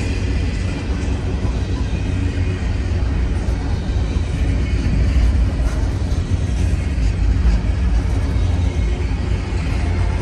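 Intermodal freight cars of a long CN train rolling past, a steady loud rumble of wheels on rail with faint clicks.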